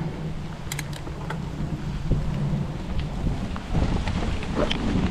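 Rain falling, with low wind rumble on the microphone and scattered sharp taps of raindrops.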